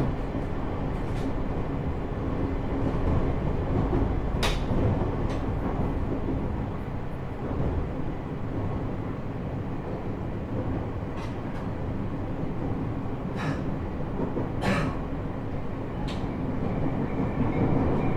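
Cabin running noise of a JR East E127-series electric multiple unit (KuMoHa E127-11) under way: a steady rumble of wheels on rail, with a few sharp clicks, the strongest about four and fifteen seconds in.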